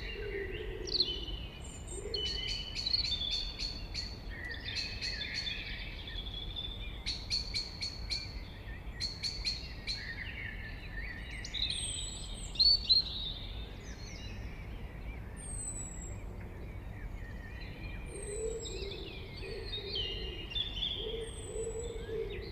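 Blackbird singing its varied warbled phrases, mixed with other birds: quick rattling trills, short high thin notes repeated every couple of seconds in the second half, and a low call at the start and again near the end.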